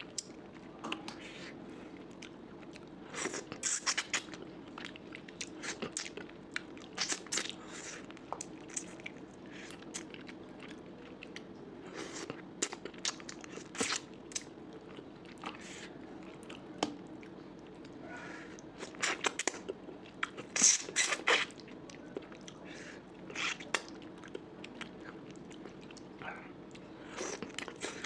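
A person eating close to the microphone: chewing and biting, with irregular sharp crunches and smacks as the food, fish head curry with mutton and rice, is bitten and chewed.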